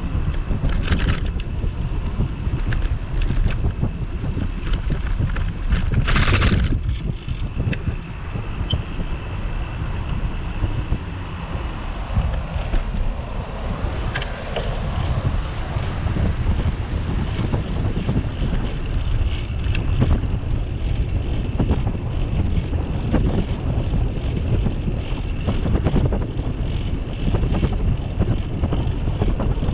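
Wind buffeting the microphone of a bike-mounted camera while riding, a steady low rumble. A brief louder rushing burst comes about six seconds in.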